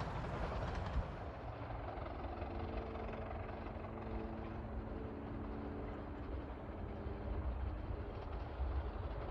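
Train on the 15-inch-gauge miniature railway running, a steady rumble with faint held tones from about two to seven seconds in.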